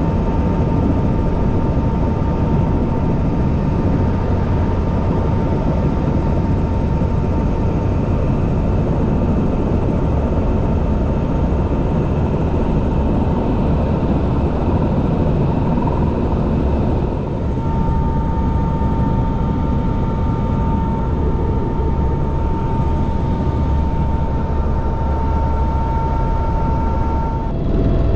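Helicopter running, heard from inside the cabin: a steady, loud low drone of rotor and engine with a steady high turbine whine above it. The sound dips briefly about two-thirds of the way through.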